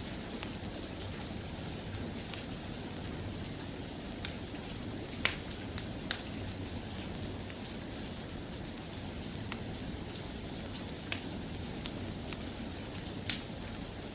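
Steady, even rain, with a few sharp pops or ticks scattered through it, the strongest about five seconds in.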